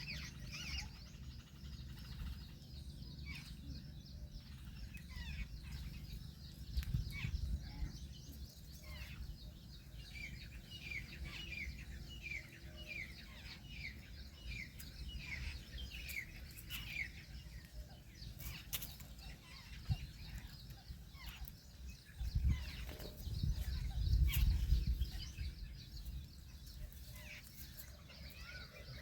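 Birds calling: a long series of short, downward-sliding chirps repeated about one or two a second, with a low rumble twice.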